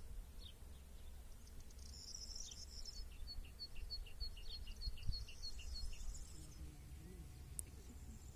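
Songbird singing: a run of about ten short high chirps, roughly three a second, with higher twittering before and after, over a low outdoor rumble.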